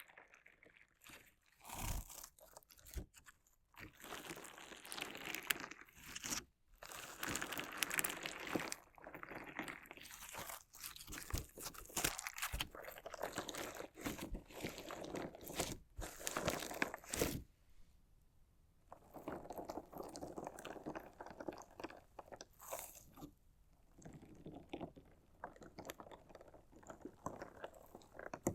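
Crunchy slime and decorative stones being worked by hand close to the microphone: irregular crunching and crackling full of sharp clicks, in runs with a couple of short pauses.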